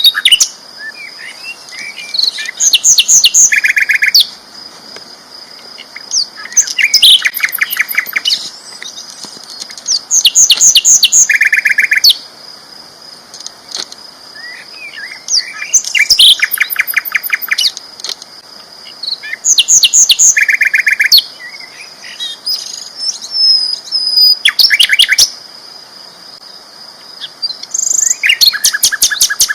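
Sikatan londo flycatcher singing loudly, repeating its song phrase every few seconds: each phrase is a quick run of rapid high trilled notes, often ending in a lower buzzy trill.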